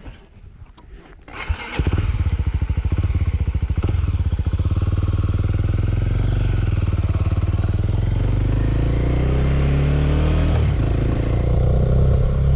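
Suzuki Thunder 250 single-cylinder motorcycle engine starting up about two seconds in, then running with a steady pulse, its pitch rising and falling near the end.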